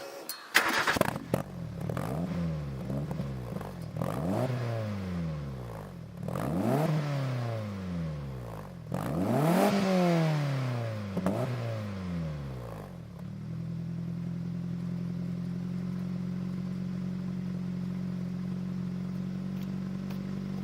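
A car engine and exhaust start up about half a second in, are revved five times with the pitch rising and falling on each blip, then settle into a steady idle for the last seven seconds.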